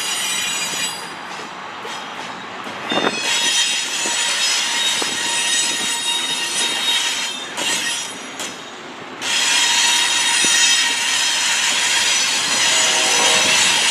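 Freight train rolling by with its steel wheels squealing against the rails, a high-pitched squeal that fades twice and comes back, loudest in the last few seconds.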